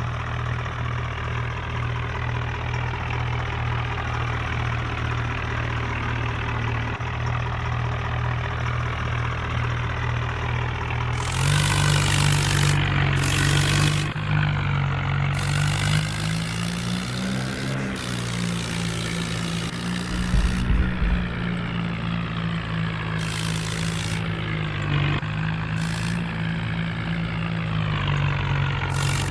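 Diesel vehicle engine running steadily, then revving up to a higher, louder pitch about 11 seconds in. Repeated bursts of hiss come and go over the engine from then on.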